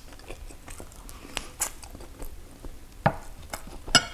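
Close-miked chewing and small wet mouth clicks of someone eating a mouthful of rice. Near the end come two sharper taps of chopsticks, the last, against a clay pot, ringing briefly.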